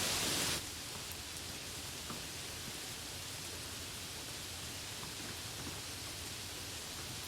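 Rain falling steadily. A louder, brighter rush cuts off suddenly about half a second in, leaving softer rain with faint scattered drop ticks.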